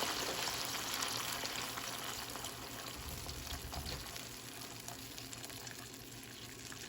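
Chicken broth in a hot pot of sautéed chicken, hissing and bubbling, the hiss dying down steadily.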